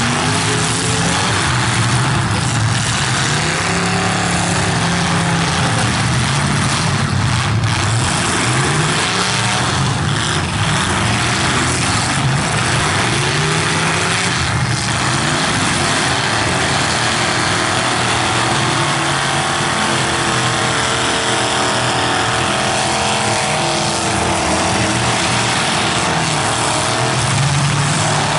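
Several full-size stock demolition derby cars' engines revving hard, their pitch rising and falling again and again as the cars push and ram against each other.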